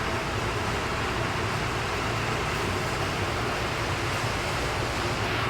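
Steady rushing noise of a fan or air-moving unit running, even throughout, with no distinct knocks or clicks.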